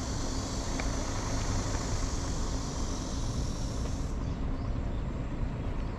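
Steady rushing of a stream flowing, with a high insect buzz from cicadas that cuts off about four seconds in.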